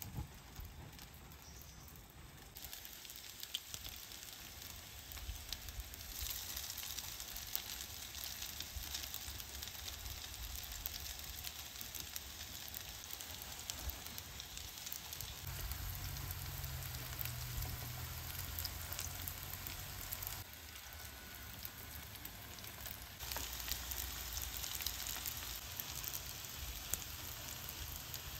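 Stuffed lattice-pastry rolls (reshte khoshkar) frying in oil in a non-stick pan: a steady crackling sizzle that grows louder about six seconds in.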